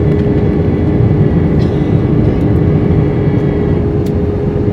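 Steady airliner cabin noise inside an Airbus A320 during descent: a dense low rumble of airflow and the IAE V2500 engines, with a steady hum over it.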